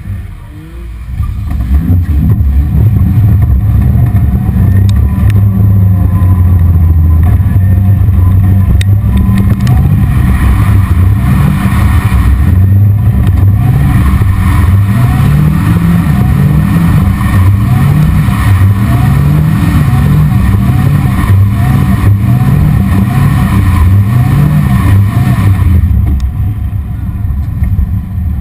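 Sports car engine heard from the open cockpit, picking up hard about two seconds in. From about ten seconds its pitch repeatedly climbs and drops, roughly every second and a half, as the driver works the throttle to hold the car in a drift, then it eases off near the end.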